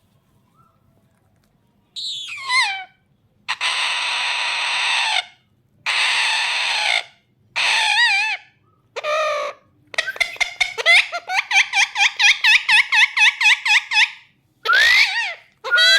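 Pet parrot calling: a falling warble, then harsh screeches and warbling squawks, then a fast run of repeated chattering notes, about four or five a second, for about four seconds, and a rising call near the end.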